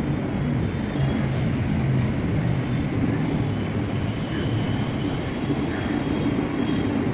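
Mumbai suburban local train, an electric multiple unit, running past on the tracks: a steady rumble of wheels on rails.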